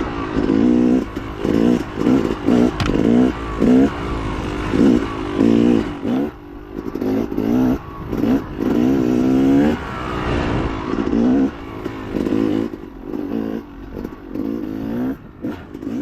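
Dirt bike engine revving in repeated short bursts as the throttle is worked on and off, its pitch rising and falling over and over, with a sharp knock about three seconds in.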